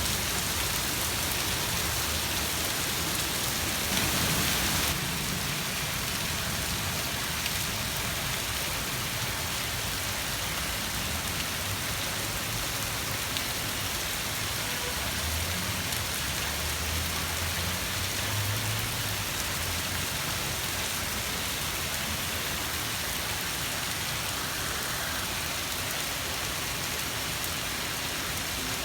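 Rain falling steadily, an even hiss that briefly grows louder about four seconds in. A faint low rumble comes through around the middle.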